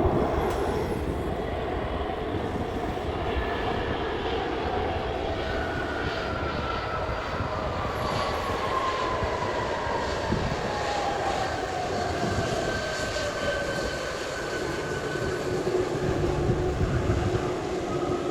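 Jet airliner's engines passing: a steady rumble with a whine that falls slowly in pitch as the plane goes by.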